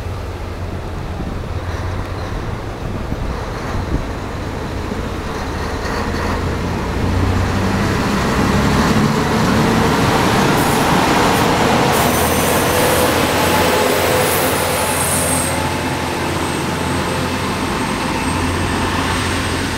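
Train running past, a steady low engine hum under rail noise that grows louder toward the middle, with some high-pitched wheel and rail hiss at its loudest, then eases off a little.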